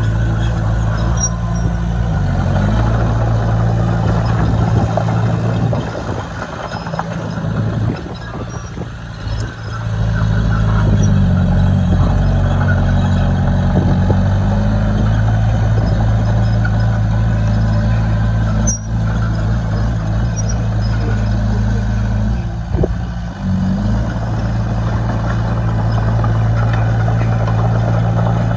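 Diesel engine of a piece of earthmoving equipment running under work, its pitch and level dropping and picking back up several times as the load and throttle change.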